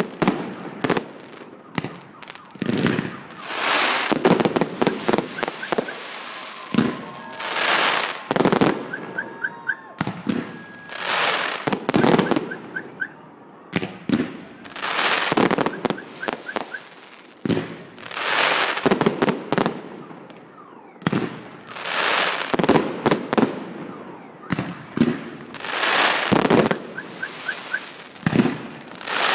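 Fireworks salute: shells bursting one after another, roughly every one to two seconds, with crackling between the bangs.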